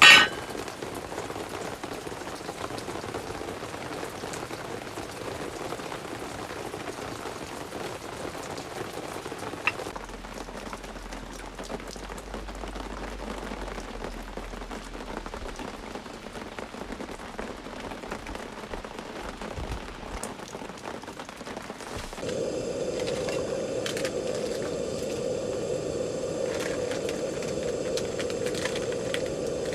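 Steady rain falling on a surface, an even patter, with a sharp crack at the very start. About twenty seconds in, the rain sound becomes louder and denser.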